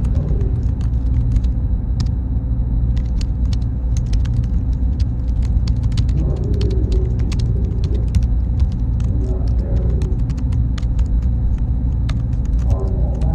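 Server-room ambience: a steady, deep rumble of running machinery with a thin, steady high tone and scattered faint clicks.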